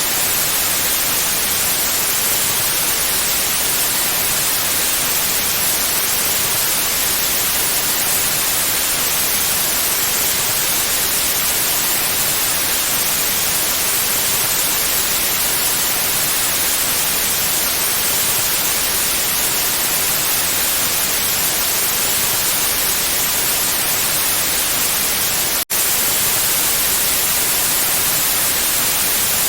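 Steady white noise, an even hiss strongest in the highs, with a split-second dropout near the end where the loop joins.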